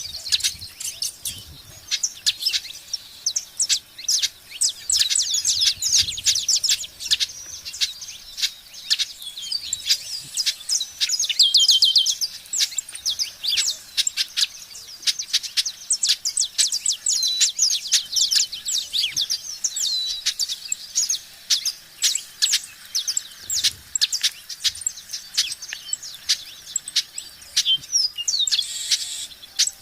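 Birds chirping continuously, a dense stream of quick high-pitched chirps and short trills.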